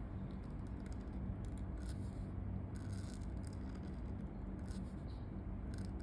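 Pen nib scratching across paper in short, irregular strokes of handwriting, over a steady low background hum.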